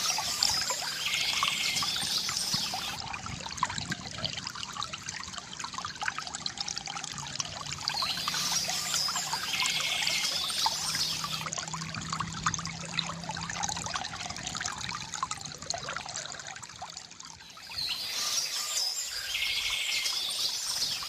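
Small stream trickling and splashing steadily, with a songbird singing high, busy phrases three times: at the start, about eight seconds in, and again near the end.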